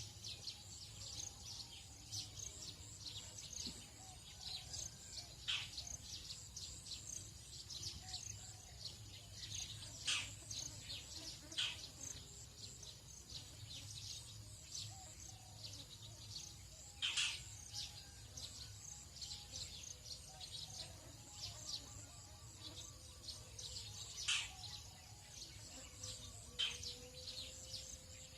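Tropical dawn chorus of wild birds: many short chirps and sharp, high calls that sweep downward, a handful of them louder and nearer. Beneath them runs a steady high insect buzz.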